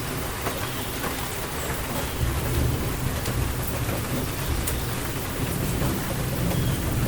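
Steady rain falling, with a low rumble of distant thunder building about two seconds in and rolling on.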